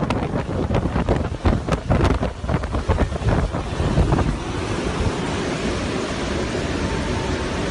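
Hurricane wind buffeting the microphone in irregular gusts. About four seconds in this gives way to a steady rushing noise.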